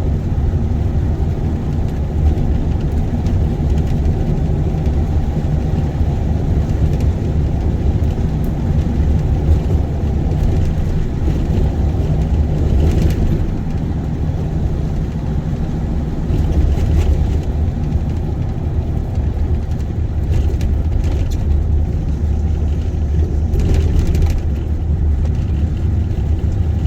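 Vehicle driving on a rough road, heard from inside the cabin: a steady low rumble of engine and tyres, with a few faint knocks from bumps.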